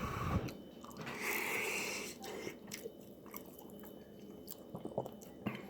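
Faint chewing of a bite of homemade chicken pot pie, with a few small clicks and a soft hiss between about one and two seconds in.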